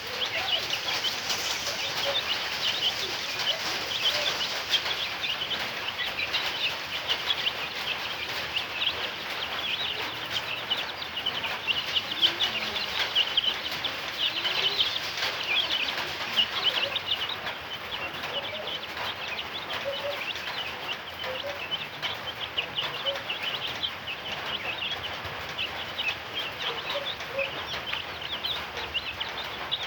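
A flock of month-old native village chicks (ayam kampung) peeping continuously, many short high-pitched peeps overlapping throughout, with a few lower notes here and there.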